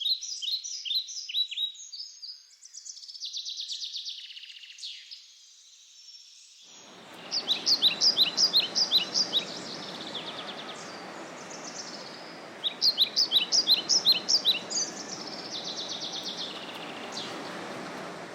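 Songbirds singing: repeated quick series of high chirps, about half a dozen notes at a time. About a third of the way in, a steady, even rushing noise starts suddenly and carries on beneath the birdsong.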